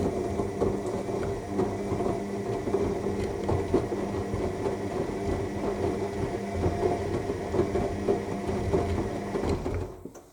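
AEG L7FE7461BI front-loading washing machine in its final rinse: the drum motor hums while wet laundry and water slosh and tumble in the drum. The tumbling stops near the end as the drum comes to a pause.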